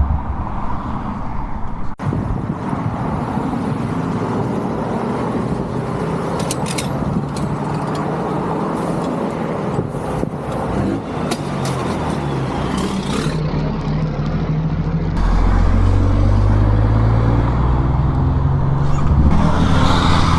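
Road traffic on a highway, vehicles and engines running, with a louder low engine rumble coming in about fifteen seconds in.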